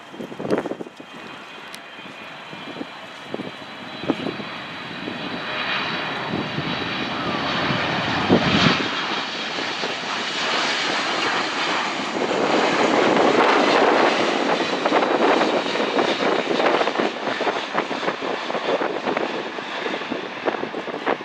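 Jet airliner flying past: its engine noise, with a high whine on top, builds over about twelve seconds, is loudest a little past the middle, then eases slightly.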